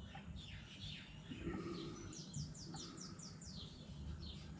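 Faint birdsong: scattered high chirps, and a little past halfway a bird repeats a quick falling note about five times a second for just over a second.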